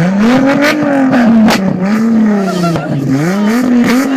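VW Corrado engine through a straight-piped exhaust, revved again and again, the pitch climbing and dropping about once a second, with a few sharp pops.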